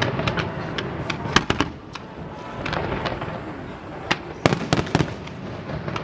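Fireworks display: shells bursting in a run of sharp, irregular bangs. The loudest are a quick cluster of three about three-quarters of the way through.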